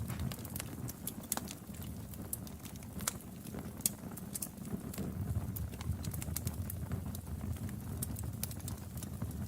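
Wood fire in a fireplace crackling: irregular sharp pops and snaps over a low, steady rumble of burning.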